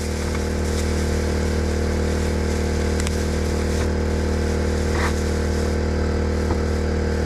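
Portable generator engine running at a steady speed, a constant hum. A couple of faint light knocks come about three and five seconds in.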